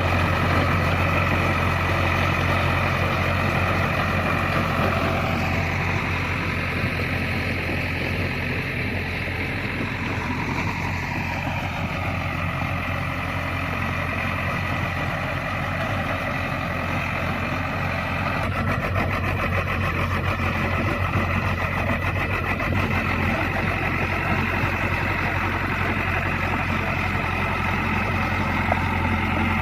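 Hitachi hydraulic excavator's diesel engine running steadily, with a higher whine that dips in pitch a couple of times as the machine works.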